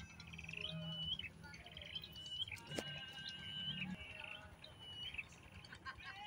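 Small bird chirping in short high phrases, repeated about once a second, over faint background music.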